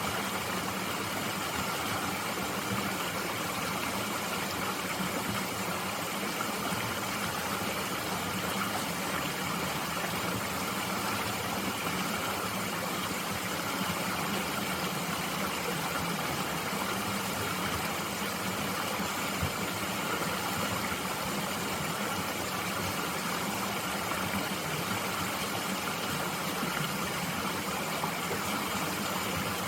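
Mountain stream flowing steadily, an even rush of water with no breaks.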